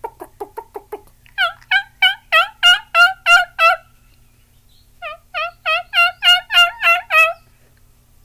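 Human imitation of a wild turkey hen: a quick run of short clucks, then two runs of about eight yelps each, about three a second, with a pause between them.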